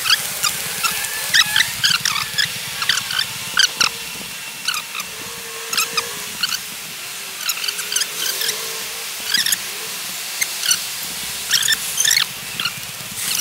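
Small birds chirping, short high-pitched chirps coming several times a second over a faint steady background hum.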